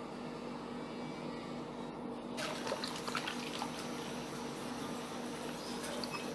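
Water splashing and dripping as a plastic toy is lifted out of a bucket of water, starting a couple of seconds in and busiest just after, over a steady low hum.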